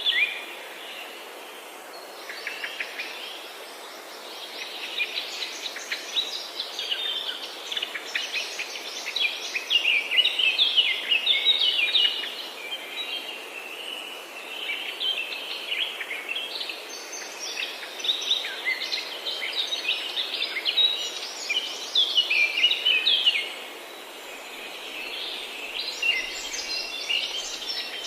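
Many songbirds chirping and singing at once, a dense chorus of short, quick chirps and trills over a steady background hiss, with a couple of brief lulls.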